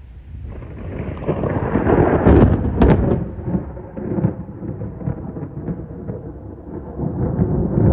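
Thunder from a close cloud-to-ground lightning strike. A rumble builds about half a second in, sharp crackling cracks come around two to three seconds in, and then a long rumble follows that swells again near the end.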